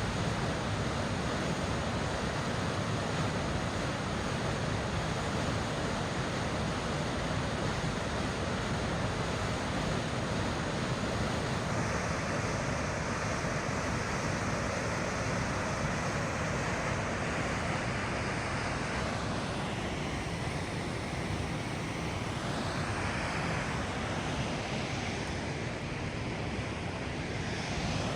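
Steady rushing road noise with a low rumble from a Daihatsu Terios Kid kei car driving along a forest road, its tyres and engine heard together. The sound shifts a little in character over the second half.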